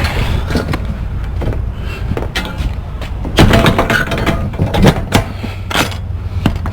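Metal clanks and knocks from a semi-trailer's rear door latches being worked and checked, several sharp strikes spread through, over a steady low rumble.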